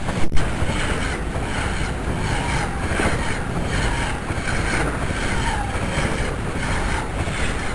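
Passenger train passing at speed: a steady rumble and rushing noise that rises and falls in a regular rhythm, with a sharp knock about a third of a second in. Wind buffets the microphone.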